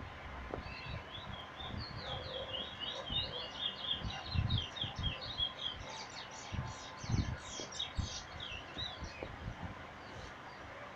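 A pet bird singing a fast, twittering run of short high chirps that fades out near the end, with a few low thumps underneath.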